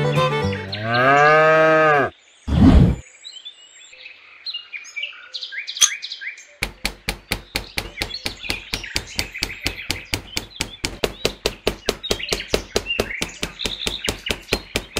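Rapid, even tapping of a small hammer driving wooden dowels into sand, about five taps a second, starting about six and a half seconds in. Before it, a music cue ends with a falling glide, a short loud thump comes, and birds chirp.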